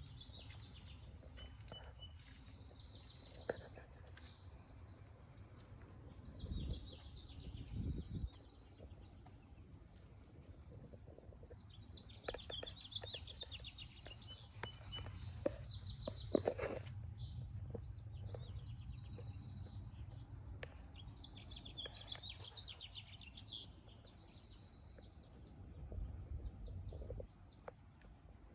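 Birds chirping in repeated short trilling phrases over a steady low rumble, which swells briefly twice, about a quarter of the way in and near the end.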